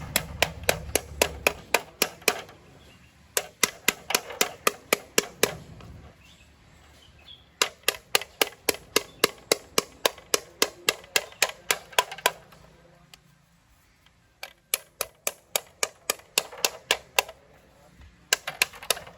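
Fuel injectors on an injector cleaning and testing machine firing in rapid runs of sharp clicks, about four or five a second, stopping and starting every few seconds as their spray is checked for clogging.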